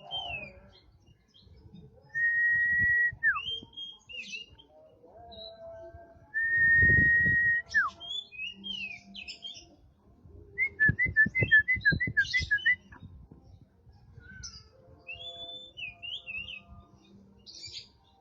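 Small songbirds singing: long, level whistled notes that each end in a quick downward slide, twice, with high chirps between them. About halfway through comes a fast run of about ten short notes.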